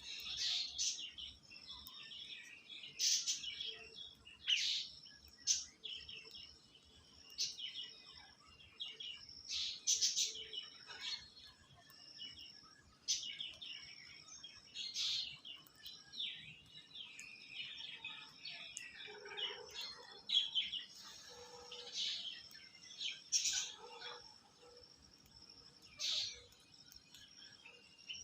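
Birds chirping and calling: many short, high chirps, one every second or so, often overlapping.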